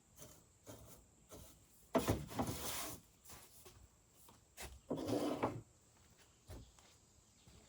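Two short scraping rubs, one about two seconds in lasting about a second and a shorter one about five seconds in, among a few light knocks as things are handled.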